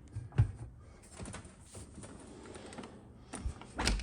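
Scattered light clicks and knocks from a dishwasher being handled, with two sharper knocks near the end.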